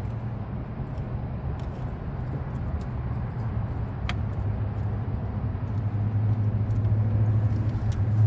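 Low, steady hum of a motor vehicle engine running, growing louder over the last few seconds, with a faint click about four seconds in.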